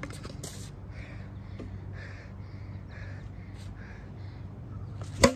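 A bird calling over and over, about two short rasping calls a second. Near the end comes one sharp crack, a plastic bat hitting the wiffle ball on a foul tip.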